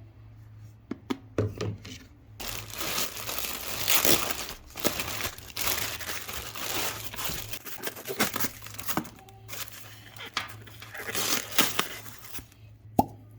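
Plastic packaging crinkling and tearing as a parcel is opened and an item unwrapped, in dense crackling spells with a sharp snap near the end.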